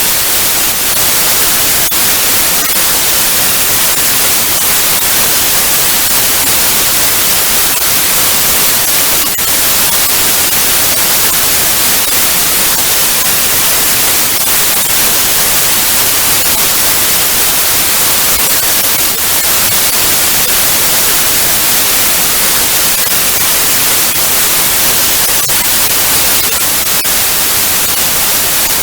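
Analog TV static: a loud, steady hiss, brightest in the treble, with faint crackles now and then.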